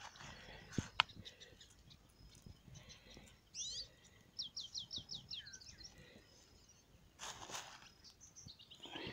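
A wild bird calling: a couple of quick sweeping notes, then a fast run of about eight chirps stepping down in pitch, ending on a short falling note, with a few more chirps near the end. Two sharp clicks come about a second in, and a brief rush of noise a little after seven seconds.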